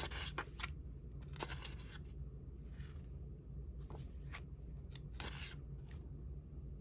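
Paper rustling as loose paper ephemera pieces are handled and leafed through, in short scattered rustles over a low steady hum.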